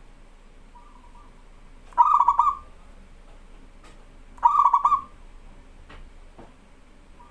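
Zebra dove (perkutut) cooing: a faint short note, then two loud rolling coo phrases, each about half a second long and about two and a half seconds apart.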